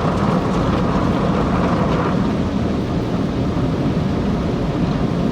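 Automatic tunnel car wash heard from inside the car: a loud, steady rush and rumble of water spray and wash equipment working over the car's body during the soap stage.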